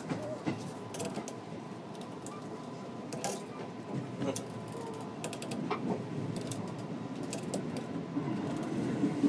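Commuter train under way, heard from inside the car: a steady low running rumble with irregular clicking and rattling from the car.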